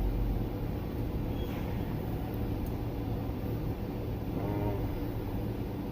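Steady low hum of a truck's running engine, with a brief faint voice about four and a half seconds in.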